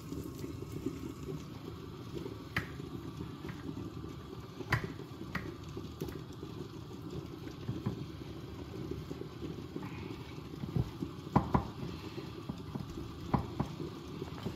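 Kitchen background with a steady low hiss, broken by a handful of light clicks and knocks from utensils and dishes being handled.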